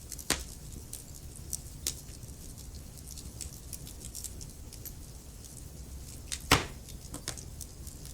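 Wood fire crackling in a fireplace: a steady low rumble with frequent sharp pops and snaps. The loudest pop comes about six and a half seconds in.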